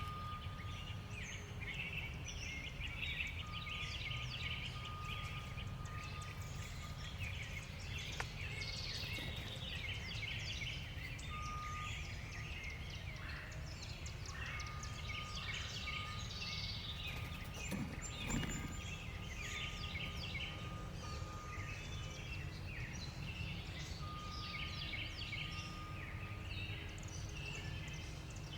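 Many small birds chirping and chattering at once, short calls overlapping continuously over a steady low rumble of background noise. A thin steady tone sounds on and off.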